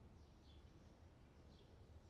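Faint outdoor summer ambience recording: a distant bird chirps twice over a low steady background hum.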